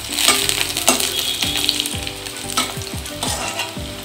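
Sliced shallots and green chillies sizzling in hot groundnut oil in a metal kadai. A slotted steel spatula stirs them, scraping and tapping against the pan several times.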